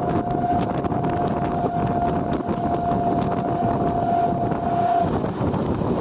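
Train passing close by, with a steady loud rumble of the wheels on the rails and short clicks. A single steady high tone carries over it and stops about five seconds in.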